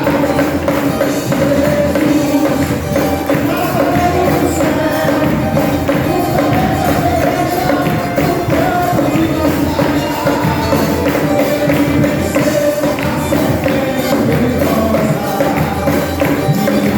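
Live worship band playing an upbeat Pentecostal song, with a steady beat and tambourine jingles.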